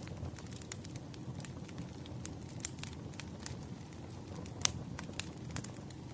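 Campfire crackling: irregular sharp pops and snaps over a steady low rumble, the loudest pop a little past halfway.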